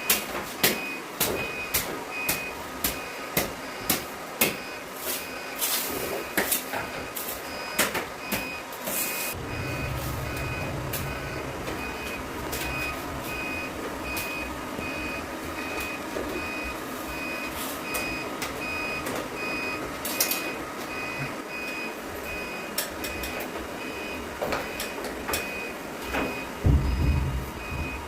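Electronic warning beeper sounding a short tone roughly every half second, with scattered sharp clicks and knocks. A low hum comes in about ten seconds in.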